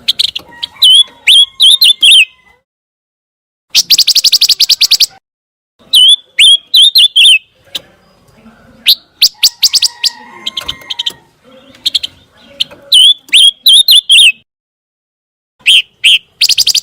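Song of the bird Indonesian bird-keepers call pancawarna: short, loud phrases of sharp high chirps and quick down-sweeping notes, broken by silent gaps, with a rapid buzzing rattle about four seconds in and again near the end.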